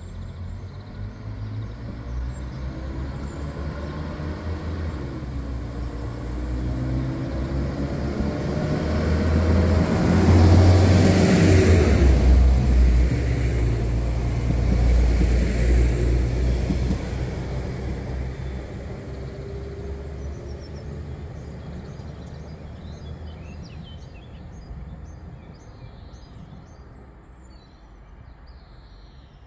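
Passenger train going through the station: a rumble that builds to its loudest about ten to twelve seconds in, then fades steadily away. A high whine rises as it approaches and drops off as it passes. Birds chirp faintly as it dies away.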